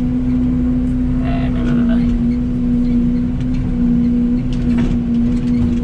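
Excavator's diesel engine running at a steady pitch, with a few faint knocks over it.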